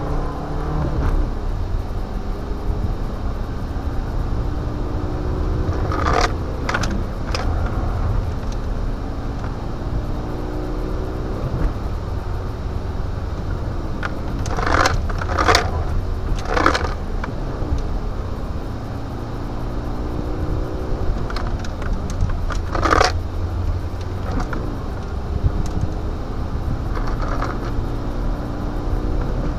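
Renault Clio 1.9 diesel engine driven hard, heard from inside the cabin: its pitch rises again and again as it revs up through the gears, dropping at each shift. A few short, sharp noises cut in, in clusters about six, fifteen and twenty-three seconds in.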